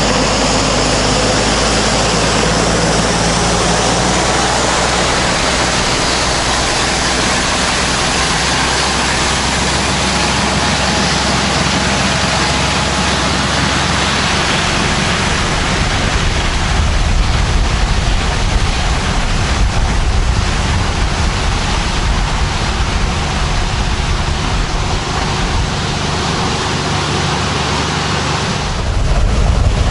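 Tractor engine running steadily under a dense, loud hiss. The engine note shifts about halfway through and again near the end, where it grows louder.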